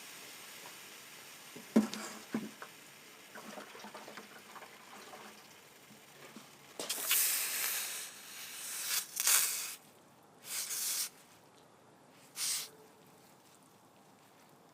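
Several short bursts of hissing, each under a second, over a fainter steady hiss that fades out, with a couple of sharp knocks about two seconds in.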